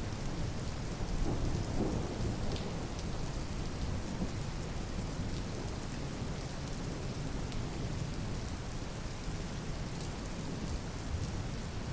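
Steady rainfall, an even hiss with scattered drop ticks and a low rumble underneath that swells about a second in.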